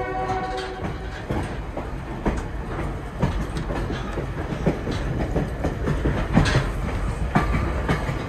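A train horn's last note cuts off about a second in. Then a passenger train rolls on with a steady rumble and irregular clicks and knocks of wheels over rail joints: clickety-clack.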